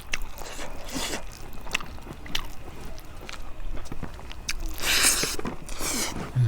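Close-miked mouth eating sounds: biting and chewing with many small clicks, and a few longer, louder noisy sounds about a second in and again around five to six seconds in.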